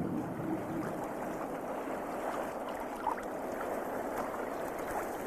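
Steady rushing water ambience, an even wash of water noise with a few faint clicks scattered through it.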